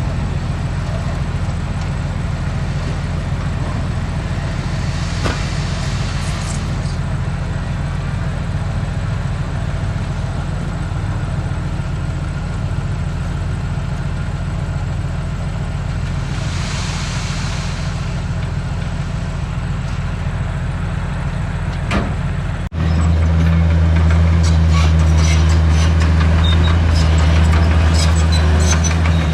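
Heavy diesel earthmoving machinery running steadily, with two hisses along the way. About three quarters of the way in it cuts abruptly to a louder, deeper engine sound.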